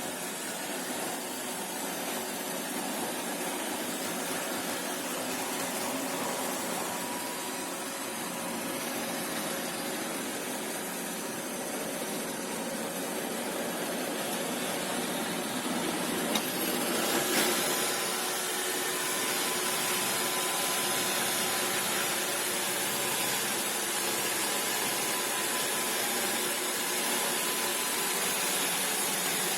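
iRobot Roomba Combo Essential robot vacuum running with a steady motor whir. A short knock comes about seventeen seconds in, after which a high whine is stronger.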